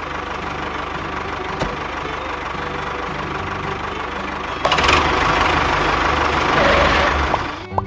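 Engine running steadily with a fast, even low pulse, like an idle. About four and a half seconds in, a louder rushing noise joins it and then cuts off near the end.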